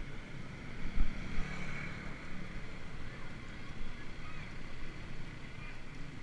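Wind buffeting the microphone with a steady low rumble, and a sharp thump about a second in.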